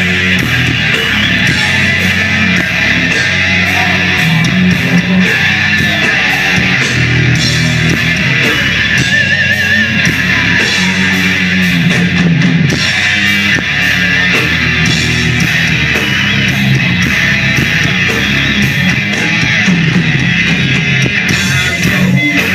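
Heavy metal band playing live: distorted electric guitars over bass and a steady drum beat, loud and continuous.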